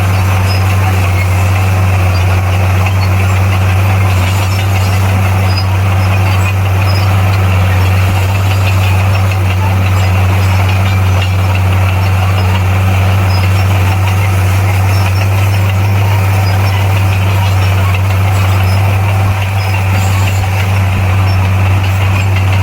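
Bulldozer's diesel engine running steadily, with a strong, constant low hum that does not rise or fall.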